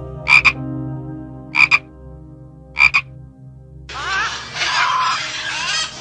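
Frog croaking: three short double croaks about a second and a quarter apart. From about four seconds in, a louder, harsh screeching follows.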